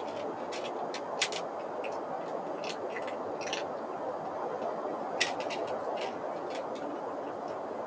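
Irregular sharp clicks, some in quick clusters, over a steady rushing background noise.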